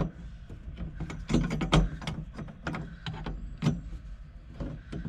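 Irregular clicks and knocks of hand tools working on a VW Beetle's shift rod coupler in the floor tunnel, trying to push out its retaining pin. A low steady hum runs underneath.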